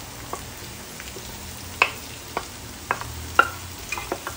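Diced bacon, sausage and garlic frying in a pot with a steady sizzle, while chopped onion is pushed off a board into the pot with a wooden spoon, giving a scattered series of sharp taps and knocks.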